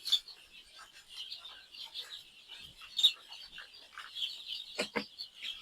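A flock of young chickens peeping continuously in a dense chorus, with a few sharp knocks, the loudest about three seconds in.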